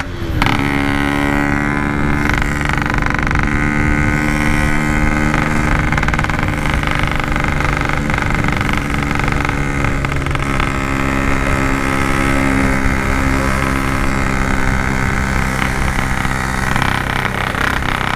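Yamaha RX-King's two-stroke single-cylinder engine running at a steady cruise through its tin standard-style exhaust. The pitch drops briefly right at the start, then holds nearly even.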